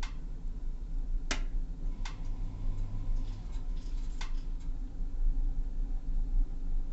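Waterland pellet stove running: a steady low hum with a few sharp ticks, about 1.3, 2 and 4 seconds in.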